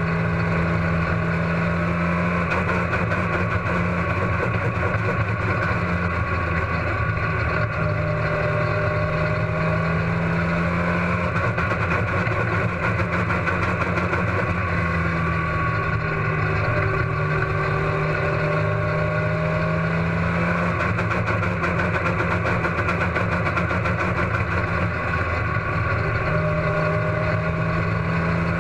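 Race car engine running continuously on track, its pitch rising and falling slightly as speed changes; the engine has a misfire.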